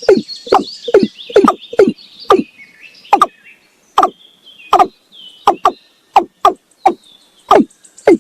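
Male watercock giving its breeding-season call: a long series of loud, short, repeated notes, fast at first, then slowing to about one a second and becoming irregular. Fainter high chirping runs underneath.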